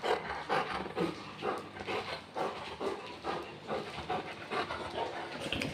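Golden retriever panting fast and evenly, about three breaths a second.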